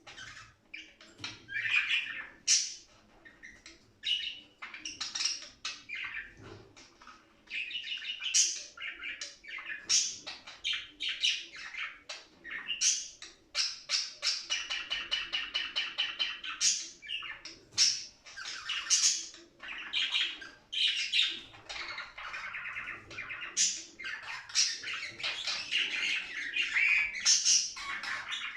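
Budgerigars chirping and warbling in a continuous, busy stream of quick chirps, clicks and squawks, with a spell of rapid chattering about halfway through. This is the excited song of budgies in play and breeding mood.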